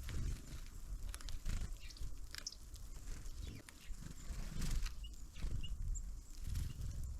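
Small birds at a feeder: irregular knocks and taps, with a few short high call notes late on.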